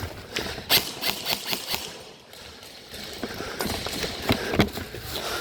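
Irregular footsteps and knocks of gear as a player moves over the ground, with louder knocks about three-quarters of a second in and again past four seconds.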